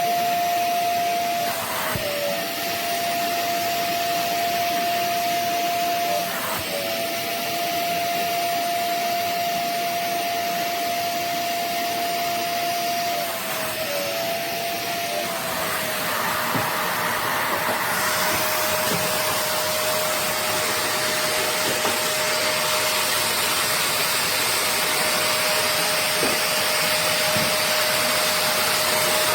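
Suction motor of a 450 W upholstery spot-cleaning vacuum running with a steady whine; its pitch dips briefly three times in the first half. From about halfway a louder rushing hiss of drawn air joins in, and the whine settles a little lower.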